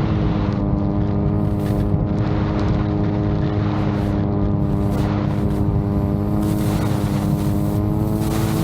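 Innovtol-3 VTOL drone's propellers running steadily in flight, a constant pitched hum with many overtones. Strong gusty wind rushes over the microphone.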